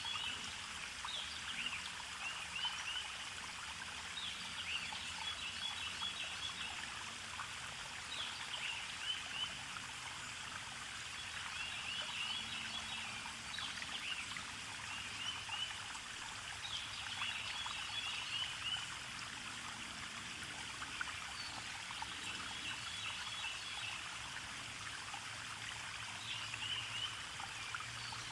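A forest stream trickling steadily, with a bird repeating a short high-pitched call phrase every few seconds.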